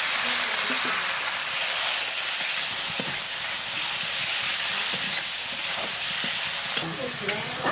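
Chopped tomatoes and onion masala frying in oil in a metal kadai, sizzling steadily, while a metal spatula stirs and scrapes the pan with a few sharp clicks.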